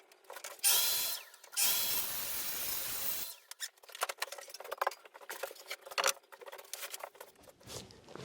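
A handheld power tool with a whining motor runs twice: a short burst, then about a second and a half. Scattered clicks and knocks of handling wood and tools follow.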